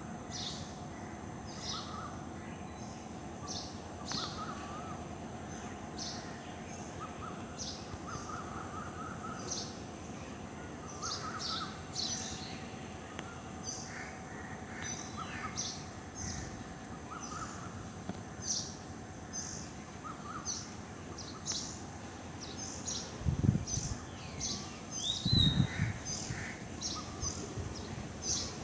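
Several birds chirping and calling over a soft outdoor background, with short high chirps repeating throughout and lower, harsher calls among them. Two dull low thumps come near the end.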